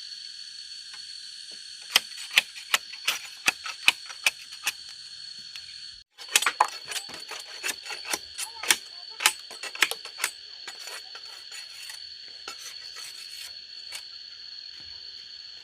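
Rapid, irregular sharp taps and clicks of something hard, coming in two dense runs and then thinning out, over a steady high-pitched insect drone.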